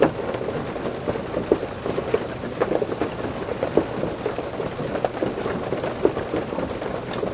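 Heavy rain, perhaps with ice or hail, drumming on a roof as heard from inside: a dense steady patter with frequent irregular sharper knocks of individual drops or stones.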